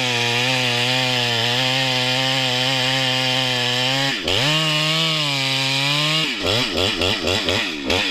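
Husqvarna 394XP two-stroke chainsaw making a felling cut through a cottonwood trunk at full throttle, held steady for about four seconds. The engine drops briefly and comes back to full speed, then from about six seconds in it revs up and down several times.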